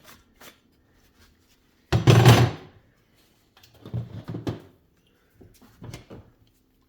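Loose fan parts being handled on a workbench: a loud clatter about two seconds in, followed by softer knocks and rattles.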